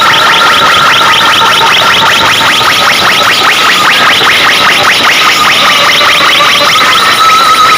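DJ sound-system speakers blaring a rapid buzzing electronic pulse, many beats a second, over a steady high tone. The sound is very loud and overloaded.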